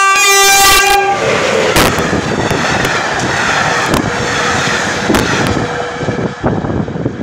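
EP07 electric locomotive sounding its horn for about a second as it comes in. Then the locomotive and its passenger coaches run past close by, wheels clacking over the rail joints.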